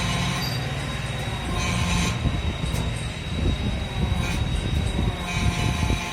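Machinery running: a steady low rumble with a constant thin high whine, and irregular knocks and rattles in the second half.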